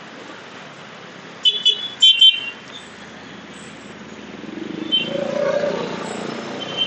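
Road traffic noise with two quick pairs of short, high-pitched beeps about a second and a half in. Then a vehicle's engine swells and fades past near the end.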